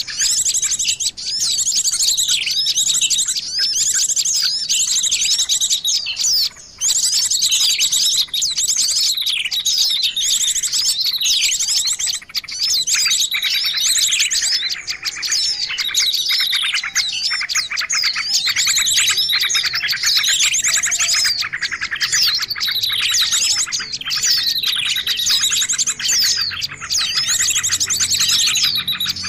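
A bird-lure recording of many small songbirds calling at once: a dense, unbroken chatter of high chirps and fast trills, meant to draw small wild birds in. It breaks off briefly about six and a half seconds in.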